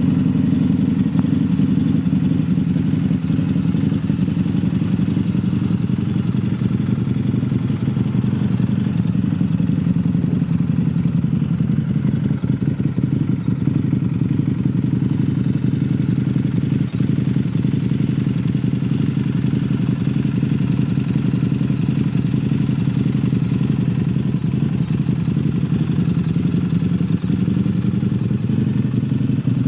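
Harley-Davidson V-Rod Muscle's liquid-cooled DOHC 1247 cc V-twin idling steadily through Vance & Hines dual straight pipes, a deep, even exhaust pulse.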